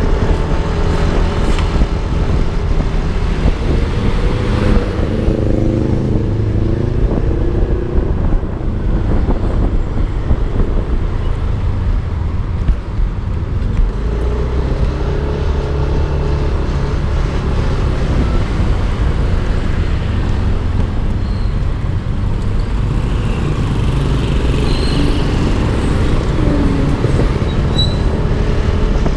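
Yamaha Aerox 155 scooter's single-cylinder engine running under way, its pitch rising and falling with the throttle in places, under a heavy rumble of wind on the microphone and road noise.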